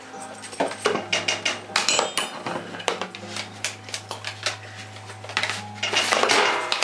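Kitchen utensils and dishes clattering: irregular clinks and knocks over a steady low hum, busier about six seconds in.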